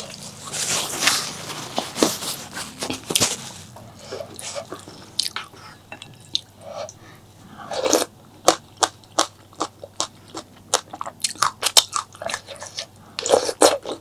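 Close-miked eating: biting into crunchy food and chewing, with a quick run of sharp crunches through the second half.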